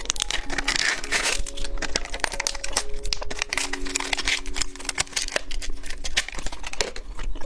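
Plastic candy packaging crinkling and rustling in dense quick crackles, over soft background music with held notes.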